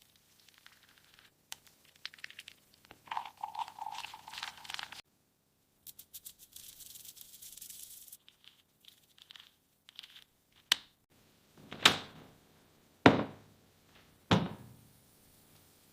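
Kitchen handling sounds while a mug cake is mixed: small crinkling and scraping noises, a short hiss, then four sharp thuds a little over a second apart.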